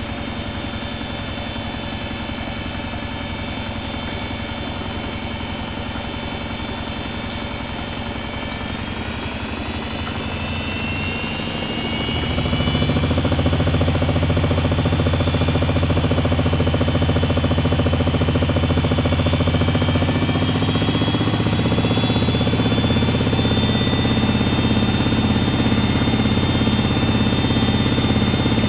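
Privileg 370 S washing machine running, its motor speeding up with a rising whine from about eight seconds in and getting much louder by about twelve seconds, then running steady at the higher speed with a humming drone and a high whine.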